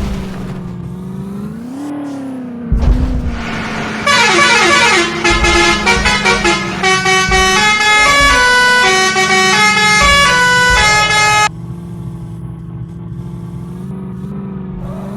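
A tractor engine running steadily, revving up briefly a couple of times. From about four seconds in, a musical horn plays a stepping tune for about seven seconds, louder than the engine, then stops abruptly.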